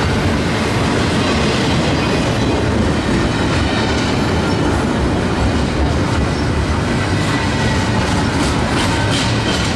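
Freight train cars rolling past close by: a steady loud rumble of steel wheels on rail with clickety-clack over the rail joints and a faint wheel squeal.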